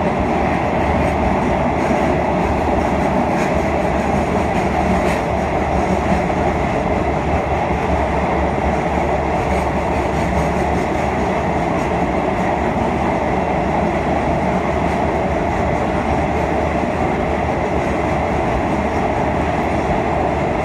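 Train running at a steady speed: a continuous, even noise of wheels on rails, with no distinct clicks or changes.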